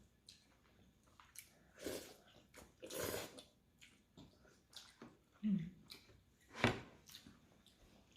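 Eating sounds from noodle soup: slurping and chewing, in a string of short, scattered noises with two longer slurps about two and three seconds in. A sharp knock comes about two-thirds of the way through.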